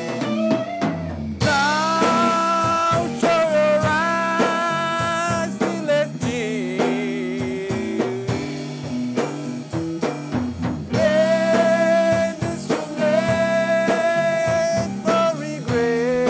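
Live blues band playing an instrumental passage of a slow song: lead guitar holding long notes that bend up into pitch and waver, over bass and a drum kit keeping the beat.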